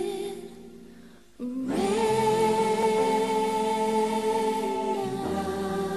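Sung worship music with long held vocal notes: one note fades out over the first second, and a new note enters about a second and a half in and is held almost to the end, where the pitch moves on.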